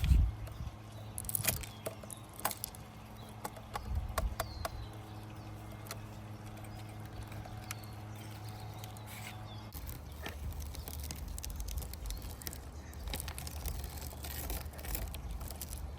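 Scattered sharp clicks and light knocks of small hard parts being handled, over a steady low hum that turns into a rougher low rumble about ten seconds in.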